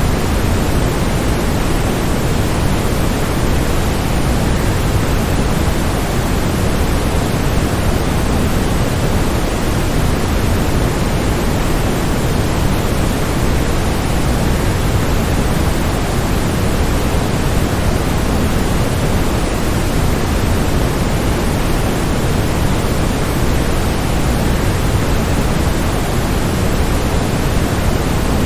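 Waterfall's steady, unbroken rushing of falling water, deep and even like pink noise.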